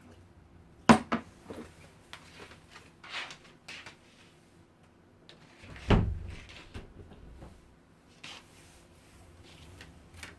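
Eating sounds at a table: a series of sharp knocks and clatters, with a heavier thud about six seconds in and short rustles in between.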